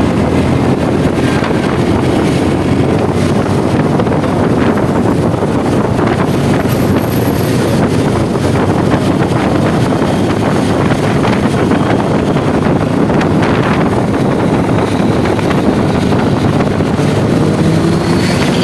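Heavy wind rushing over the microphone of a motorcycle riding at speed, with engine and road noise underneath; the sound stays at a steady level throughout.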